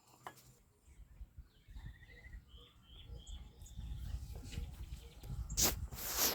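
Small birds chirping, with short repeated notes and a brief trill, over a low rumbling noise that grows through the clip. Near the end, two loud rustling bursts cover everything.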